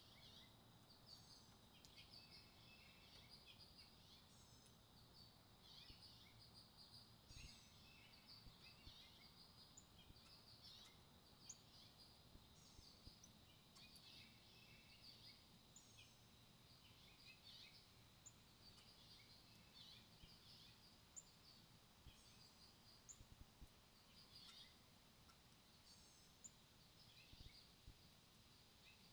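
Faint wild songbird chirps and short call notes, scattered every second or so, over a quiet outdoor background.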